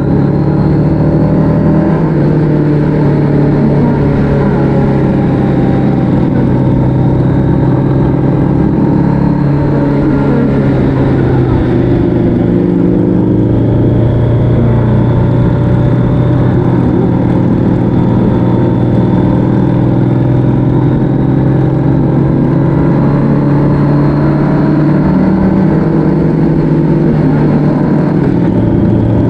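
Motorcycle engine running steadily at road speed, its pitch shifting slightly a few times, with wind and road noise.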